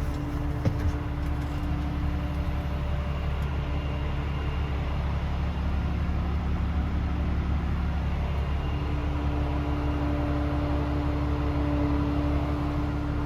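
DAF CF440 tractor unit's Paccar 440 hp six-cylinder diesel engine idling steadily. There is a short light knock just under a second in.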